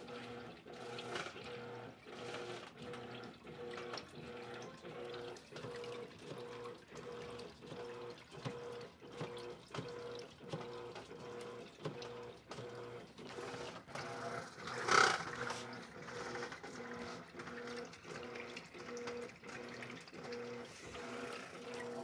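Electrolux LED14 washing machine running, its motor hum pulsing in an even rhythm with water sloshing. A louder rush of noise comes about two-thirds of the way through.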